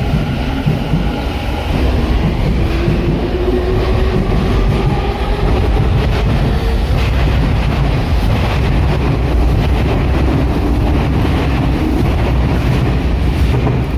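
Tokyu 5050 series electric train pulling away: its traction-motor whine rises in pitch in steps as it accelerates, over a steady rumble and clatter of wheels on rails.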